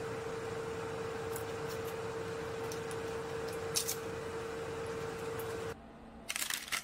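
Steady hum of a kitchen appliance fan carrying a constant mid-pitched tone, with a couple of faint taps. It cuts off suddenly near the end, giving way to parchment paper crinkling as fingers handle the pretzels on the tray.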